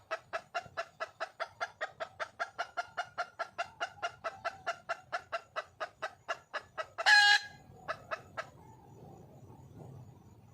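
Red junglefowl hen clucking rapidly and steadily, about four to five clucks a second, calling for a mate. A short loud squawk breaks in about seven seconds in; the clucking stops soon after.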